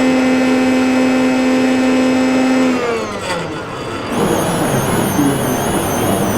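A small electric motor on an RC construction model runs at a steady pitch, then winds down and stops just under three seconds in. About a second later a noisier mechanical sound starts with a high, slightly wavering whine.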